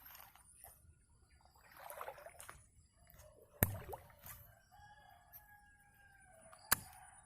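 A rooster crowing, one long drawn-out call in the second half, over a steady high whine. Two sharp clicks, the loudest sounds, come about halfway and shortly before the end.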